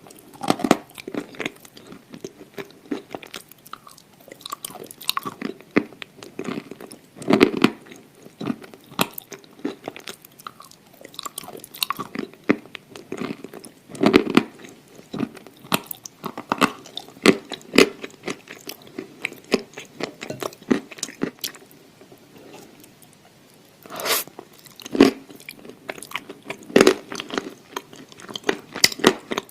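Close-miked mouth sounds of a person biting and chewing crunchy food: many irregular crackly crunches, with a few louder bites spread through.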